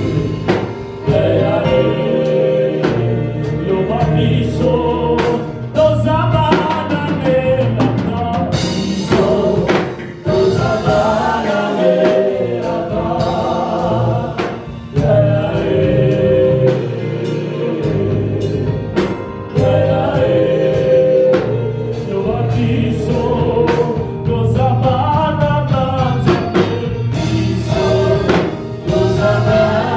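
Live gospel worship music: a choir and singers with a band of bass and drum kit, the drums keeping a steady beat.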